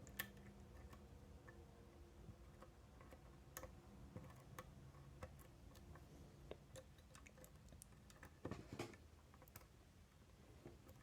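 Faint, scattered small clicks and ticks of a lock pick working the wafers inside a Miwa DS wafer lock, with a louder cluster of clicks about three quarters of the way through.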